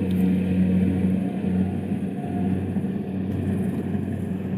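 Engine running steadily at a constant speed, a low even hum with no change in pitch.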